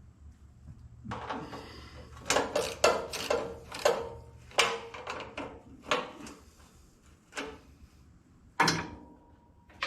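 Hand tools clanking and knocking against metal during work on a tractor: about a dozen sharp, irregular knocks and clatters, the loudest in a cluster a couple of seconds in.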